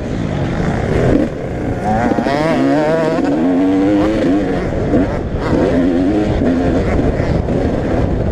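Motocross bikes racing on a dirt track, several engines revving hard and wavering up and down in pitch as the riders work the throttle, loudest a couple of seconds in.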